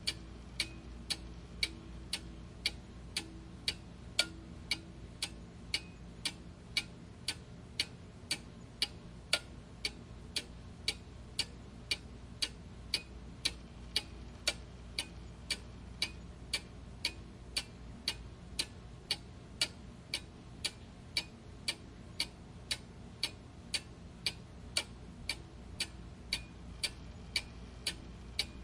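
Mechanical clock ticking steadily, about two ticks a second, over a faint low hum.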